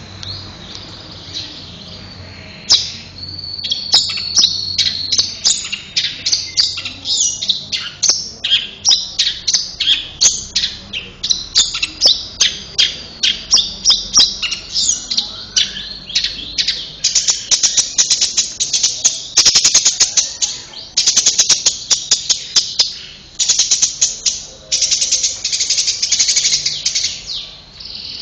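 Long-tailed shrike (cendet) singing a fast, almost unbroken stream of high chirps and trills, getting denser and louder in the second half.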